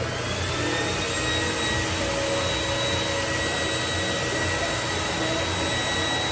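Stuffing machine's blower at a build-your-own plush toy station, running steadily: a loud rushing of air with a thin whine, filling a stuffed animal.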